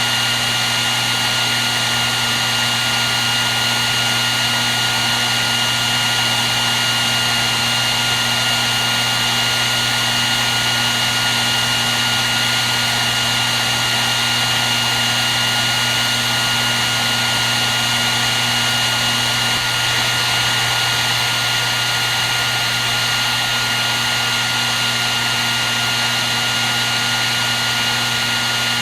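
Hair dryer running steadily: an even rush of blown air with a steady high whine from its motor and fan.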